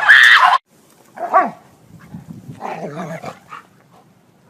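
A loud, high scream cuts off about half a second in. Then a dog gives a short yelp that falls sharply in pitch, followed by about a second of rough, low grumbling vocal noises.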